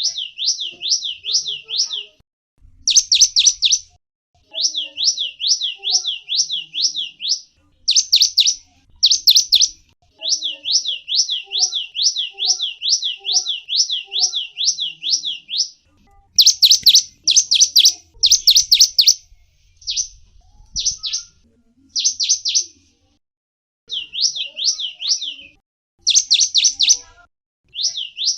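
Gelatik wingko calling: fast trains of high, down-slurred chirps, several notes a second. The phrases are one to five seconds long and repeat after short pauses.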